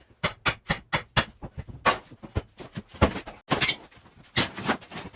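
Knocks and bangs of interior demolition work, irregular at about four or five a second, with a longer crashing, scraping stretch near the end.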